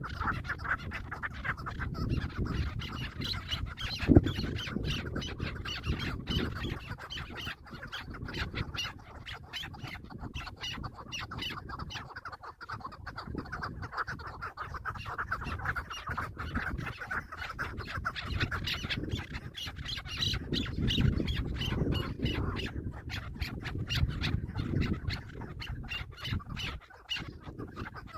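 Chukar partridges calling in a rapid run of clucking notes. There is a sharp knock about four seconds in.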